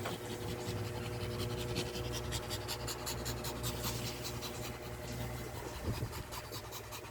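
Shih Tzu puppies suckling from their mother: a fast run of soft wet smacking clicks, thinning out after about five seconds, over a steady low hum.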